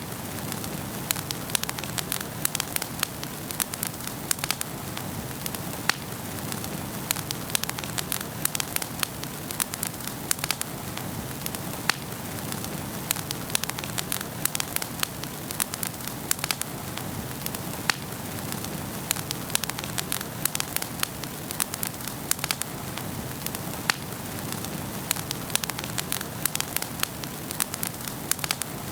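Wood fire burning in a fireplace, a steady hiss with frequent irregular sharp crackles and pops.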